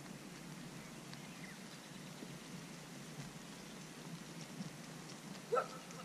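Faint ticks and rustles of a Eurasian jay pecking open blackbird eggs in the nest, over a steady low hiss. About five and a half seconds in comes one short, loud bird call that sweeps upward.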